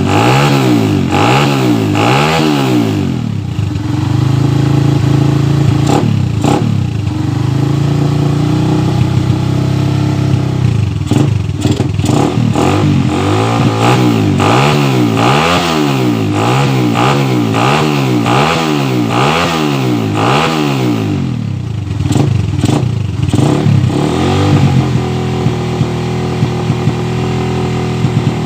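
Suzuki Satria FU 150 single-cylinder four-stroke engine revved in repeated quick throttle blips, with steadier running between, through an exhaust whose muffler has been hollowed out.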